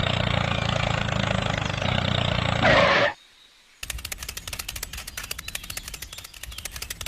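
A small motor running steadily with a low hum, cut off abruptly about three seconds in. After a brief silence, a rapid, even clicking starts and runs on.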